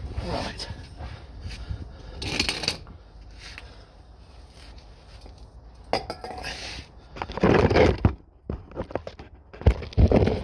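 Small metal objects clinking and clattering in several separate bursts, as tools and car parts are handled and set down.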